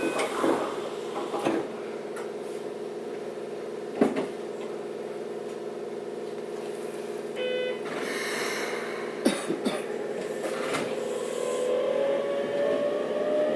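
Inside a Keikyu 600 series electric train car standing still: a steady electrical hum, a few sharp thuds, a short run of beeps and brief hisses of air. Near the end the whine of the car's Toyo-built VVVF inverter starts rising as the train begins to pull away.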